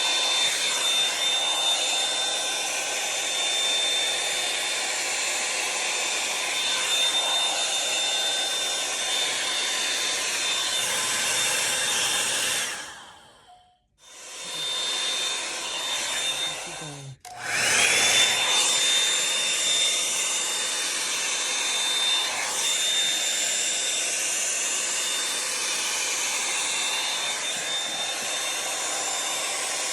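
Revlon One-Step hair dryer brush blowing, a steady rush of air with a high whine. About 13 seconds in it is switched off and winds down. A few seconds later it is switched back on, its whine rising as the motor spins up.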